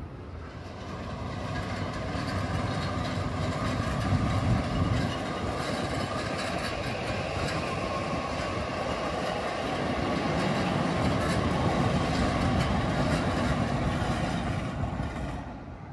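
Toei 5500 series electric train running past on the Keisei line: steady noise of wheels on the rails with a steady whine, fading out near the end.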